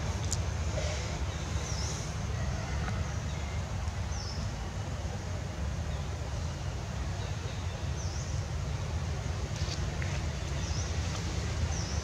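Short, high bird chirps repeating every second or two over a steady low rumble.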